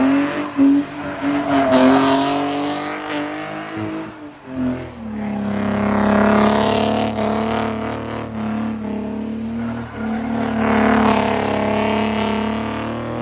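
A car's engine under way: its note climbs as it accelerates, holds, drops a step a little over four seconds in, then cruises at a steady pitch, with road noise.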